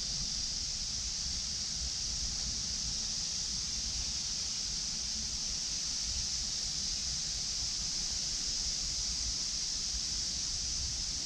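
Summer insect chorus, a steady high-pitched drone that does not let up, over a low rumble.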